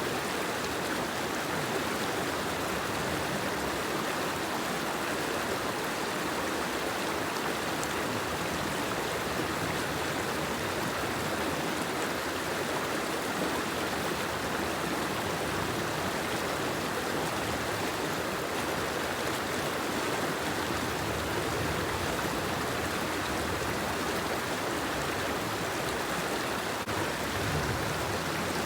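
Steady, even water noise with no distinct drops or splashes standing out.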